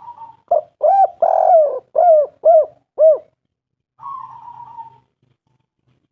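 Spotted dove cooing: a soft rolling note, then a run of six loud arched coos, the third held longest, and another soft rolling note about four seconds in.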